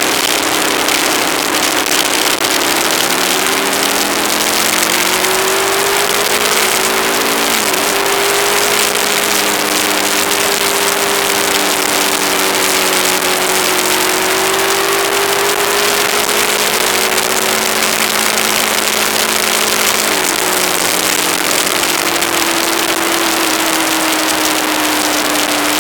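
Aprilia ETV1000 Caponord's V-twin engine running on the road, its pitch rising over the first several seconds and then dropping sharply twice, about seven and twenty seconds in. A heavy, steady rush of wind noise sits over the engine throughout.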